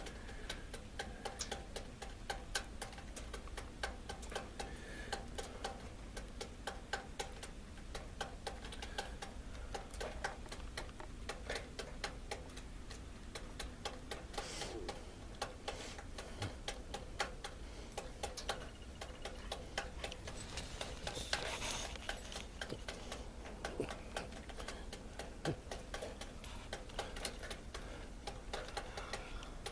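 Rapid, fairly irregular ticking: many small sharp clicks a second over a low steady background.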